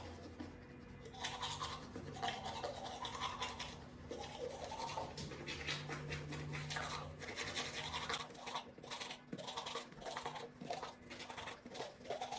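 Teeth being brushed with a toothbrush: quick repeated back-and-forth scrubbing strokes, fairly faint.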